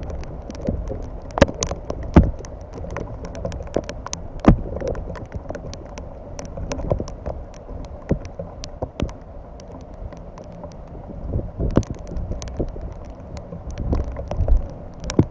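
Steady rain falling, with irregular sharp taps of raindrops striking close by.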